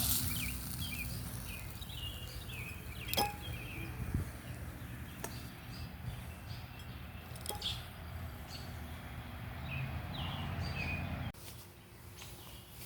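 Outdoor ambience: small birds chirping in short bursts over a steady low background rumble, with a few sharp clicks or knocks. The background drops off abruptly near the end.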